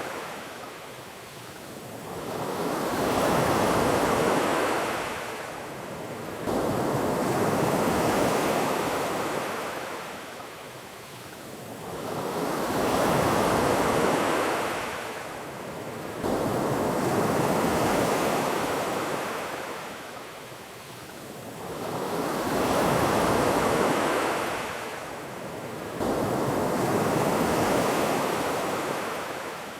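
Ocean waves washing onto a beach, each wave swelling up and falling away, about one every five seconds.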